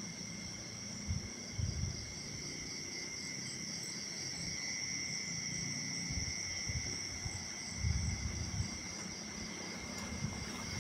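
Chorus of night insects: a steady high trill with a second, higher band and a fast, regularly pulsing chirp over it. A few low bumps come and go underneath, most around eight seconds in.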